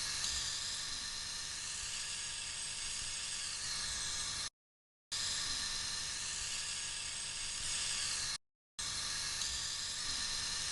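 High-pressure car wash wand spraying steadily onto a car, a hissing rush over the hum of the pump. It cuts off to sudden silence twice and resumes each time.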